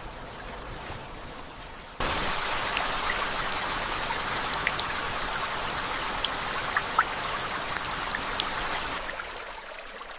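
Steady rain with many separate drops ticking. It is softer at first, turns abruptly louder about two seconds in, and fades out near the end.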